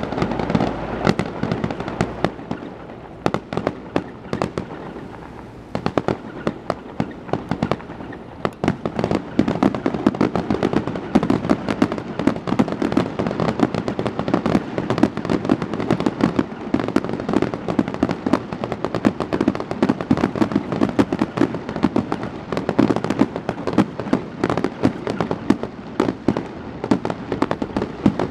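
Fireworks grand finale: aerial shells bursting in rapid, overlapping reports. The bursts thin out for a few seconds near the start, then build from about eight seconds in into a near-continuous barrage.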